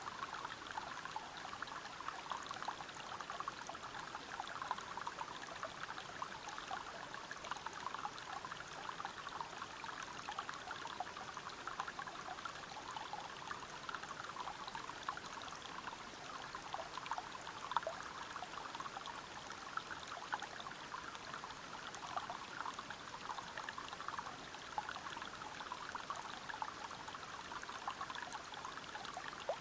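Waterfall and river water flowing over rocks: a steady rush of water, thick with small splashes.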